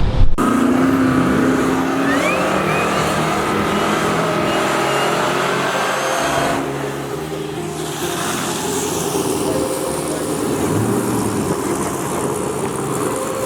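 Drag-racing truck engines running and revving at the strip, with a rising pitch in the first couple of seconds.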